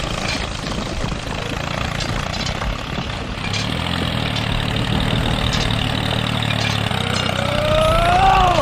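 Tractor engine idling steadily with a low, even rumble. Near the end a brief pitched tone rises and then falls.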